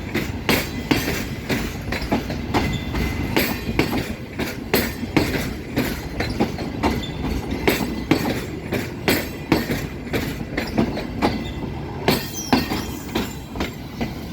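A passenger train's coaches rolling past, their wheels clacking over the rail joints a few times a second above a steady rumble.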